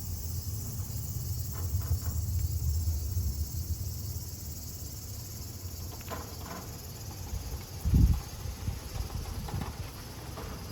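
Steady high-pitched chorus of insects, with gusty wind buffeting the microphone in the first few seconds. One dull thump about eight seconds in.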